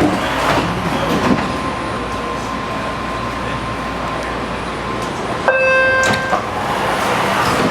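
BART train running, a steady rumbling noise with a faint held whine. About five and a half seconds in, a sharp-edged electronic tone sounds for just under a second.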